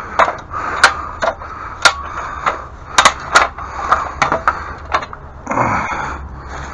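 A string of about a dozen sharp clicks and knocks at irregular intervals, with a short scrape or rustle about five and a half seconds in: hand work on tools or materials.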